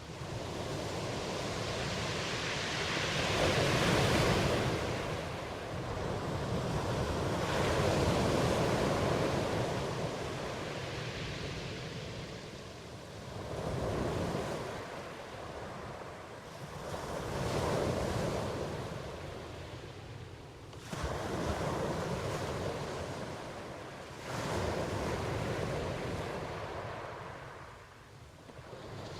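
Ocean waves breaking and washing on the shore, surging and falling away about every four seconds.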